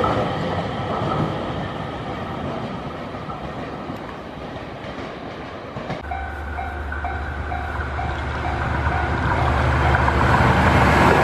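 A JR East E721-series electric train pulls away from a station, its running noise slowly fading. About six seconds in, a railway level-crossing bell starts ringing about twice a second over the steady drone of a diesel locomotive hauling passenger coaches. The drone grows louder as the train comes closer.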